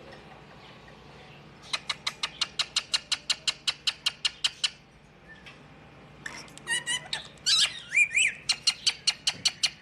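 A songbird singing. A fast, even run of sharp chirps, about seven a second, lasts some three seconds. After a short pause come varied chirps and gliding notes, then another fast run of chirps near the end.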